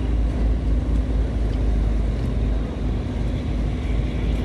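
Tugboat's diesel engine running steadily with a deep, low drone while towing cargo barges upstream against the current.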